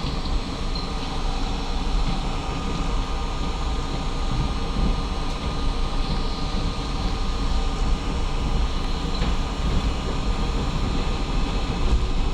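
R32 subway train running along the track, heard from inside the car: a steady rumble of wheels and running gear with a faint steady whine over it.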